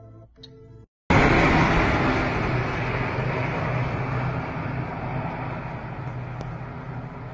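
Soft ambient music stops about a second in. After a brief gap, a loud, steady rushing noise like a vehicle or engine cuts in suddenly, with a low hum under it, and fades slowly.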